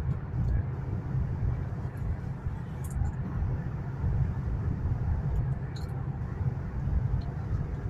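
Cabin noise inside a Chinese high-speed bullet train cruising at about 305 km/h: a steady low rumble with a hiss above it, and a couple of faint clicks.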